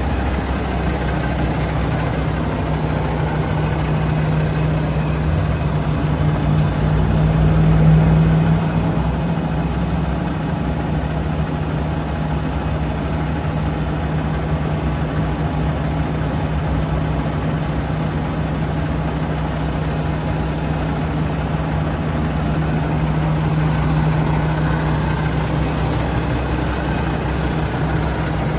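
Diesel engine of a 2016 International LoneStar 6x4 sleeper truck idling with a steady low hum. It grows a little louder about eight seconds in and again near the end.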